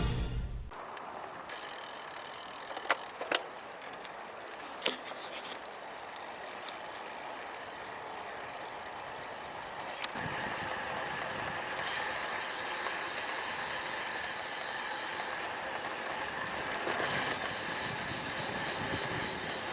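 Road bike's rear freehub ticking while coasting, with a few sharp clicks in the first few seconds and a steady rush of wind and road noise that grows louder about ten seconds in.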